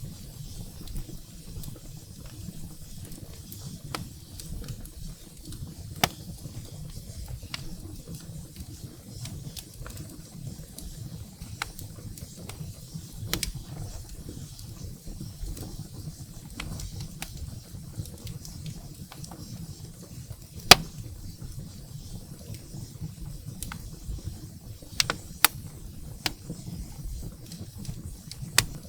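Wood fire burning in a fireplace: a steady low rumble of flames with scattered sharp crackles and pops of burning firewood. The loudest pop comes about two-thirds of the way through, and a few come close together near the end.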